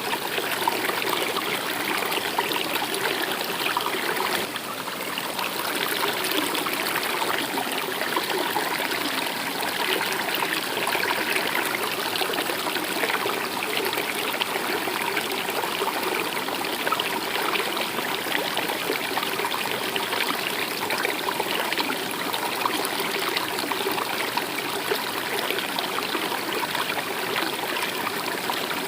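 Stream water flowing and trickling steadily over rocks.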